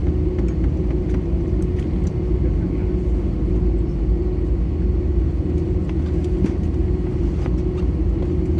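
Airbus A320 cabin noise: a steady low rumble of engines and airflow with a constant hum, and a few faint clicks.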